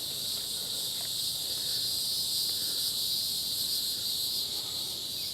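Steady, continuous high-pitched insect chorus.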